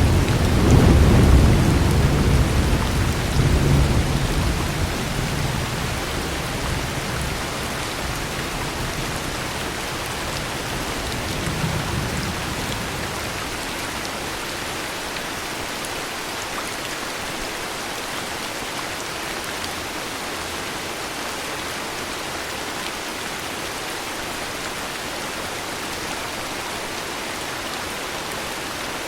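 Steady heavy rain with a low rolling thunder rumble at the start that fades over several seconds, a fainter rumble about twelve seconds in, then rain alone.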